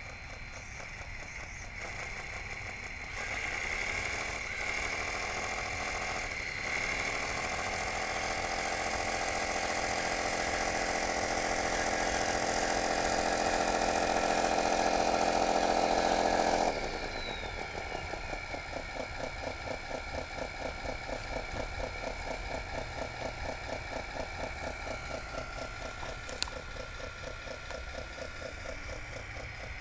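Radio-controlled model bulldozer running: a whining motor sound swells for several seconds and then cuts off suddenly, followed by a fast, even pulsing rattle.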